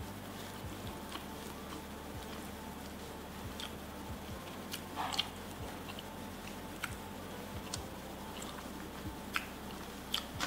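Close-miked eating sounds: chewing with scattered wet mouth clicks and smacks as chicken and rice are eaten by hand. There is a louder smack about five seconds in and a few more near the end.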